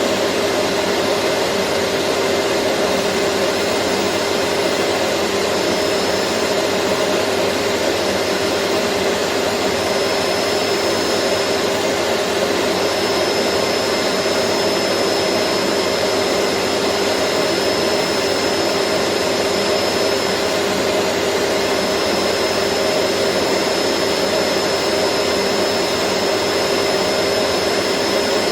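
Vacuum cleaner motor running steadily, a dense whooshing hum with a constant drone and a faint high whine that comes and goes.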